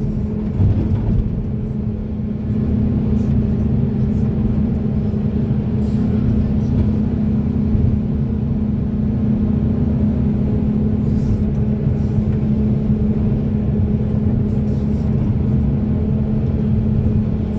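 Large hydraulic excavator's diesel engine and hydraulics running steadily under load, a constant low hum over rumble, getting a little louder about two seconds in.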